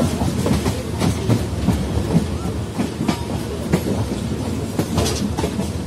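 Moving Indian Railways passenger coach running steadily, its wheels giving an irregular clickety-clack over the rail joints under a low rumble, heard from an open window or door.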